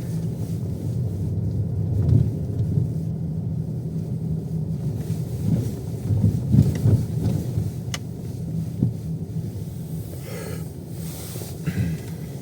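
Car running on the road, heard from inside the cabin: a steady low engine and road rumble, with a few heavier low thumps in the middle.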